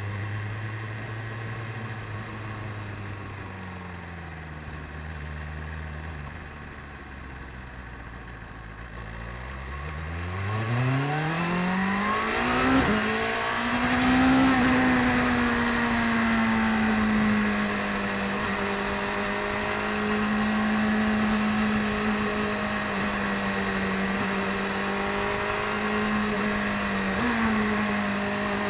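BMW S1000RR inline-four engine running at low revs, then accelerating hard about ten seconds in, with a quick gear change, then holding a steady cruising pitch. Wind noise rises with speed, and there is one short change in engine pitch near the end.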